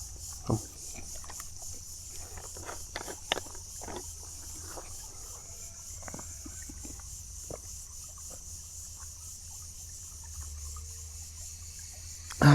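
A person eating roasted fish: soft, irregular chewing and lip-smacking clicks, over a steady high chirring of insects.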